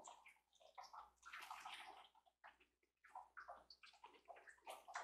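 Faint crunching as a bite of crunchy deep-fried cured meat is chewed, in scattered short ticks against near silence.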